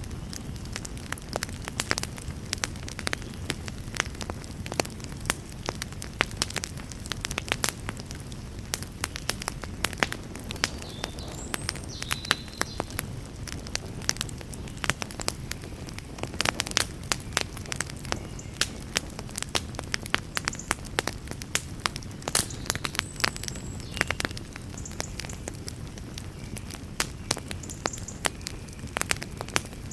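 Wood campfire crackling, with frequent sharp snaps at irregular intervals over a steady low rumble.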